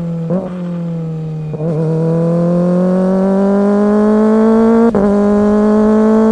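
Kawasaki ZX-25R 250 cc inline-four engine through an aftermarket big-bike silencer, pulling under acceleration with a climbing note. There are brief breaks about one and a half and five seconds in, as at gear changes. The exhaust runs too free: with too little back pressure, the rider feels power is lost.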